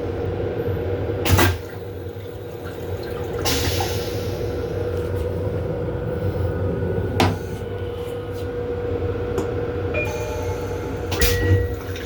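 Four loud clunks of the M7 railcar restroom's fittings being handled, like a cupboard or door opening and shutting, a few seconds apart. Under them the railcar's equipment hums steadily.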